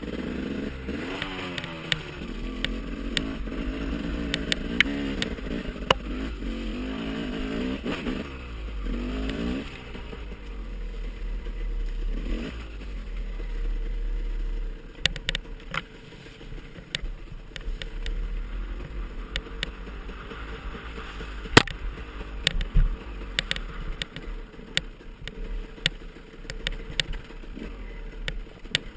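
Dirt bike engine revving, its pitch rising and falling repeatedly for about the first ten seconds, then dropping away. Scattered clicks and knocks follow, with one sharp knock about two-thirds of the way through.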